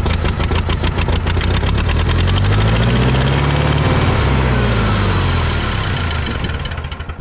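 The spark-ignition gasoline engine of an International 2400B tractor runs on fuel squeezed in by hand, firing in quick, even pulses. It speeds up to a peak around the middle, then slows and dies out near the end, because the fuel pump is not yet feeding it.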